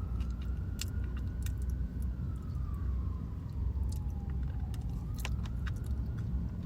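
Emergency-vehicle siren wailing slowly, rising and falling in pitch about once every five seconds, over a steady low rumble of traffic, with a few light clicks.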